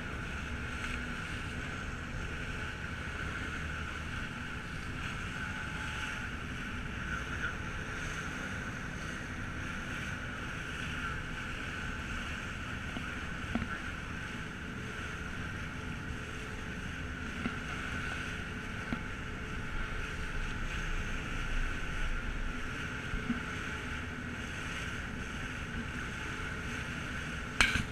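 Steady drone of a passenger ferry under way: engine hum mixed with wind on the microphone and water noise. A single sharp knock comes near the end.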